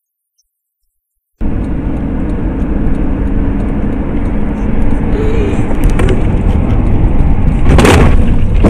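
Silence, then about a second and a half in a loud, steady rumble of a moving vehicle's engine and road noise cuts in, with a brief sharp burst of noise near the end.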